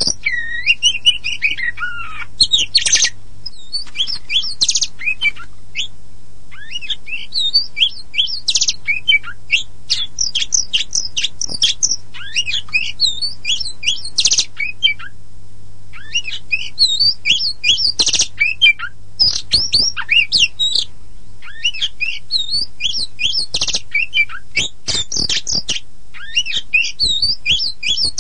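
Oriental magpie-robin of the black-and-white kacer poci form singing continuously: rapid runs of varied high whistled and scratchy notes, with a short pause about halfway through. A faint low hum sits underneath.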